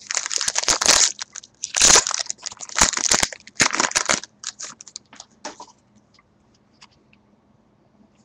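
A trading-card pack wrapper crinkling as it is torn open and pulled off the cards, in several loud bursts over about four seconds, then a few faint crackles.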